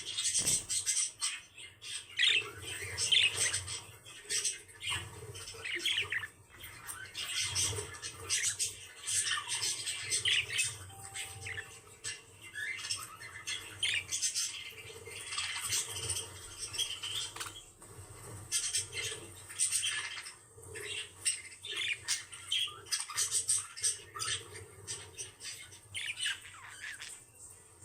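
Pet birds chattering, with a continuous run of short squawks, scratchy calls and chirps.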